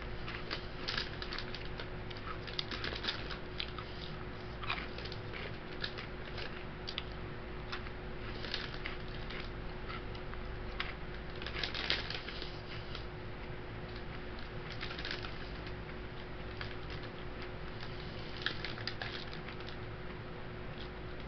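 Someone chewing crunchy oven-baked Combos pepperoni pizza stuffed crackers close to the microphone, with irregular crackly crunches scattered throughout. A steady low hum runs underneath.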